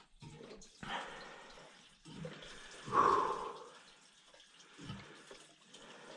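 A person wading through knee-deep snow: a few irregular scuffs and swishes a second or two apart, the loudest about three seconds in.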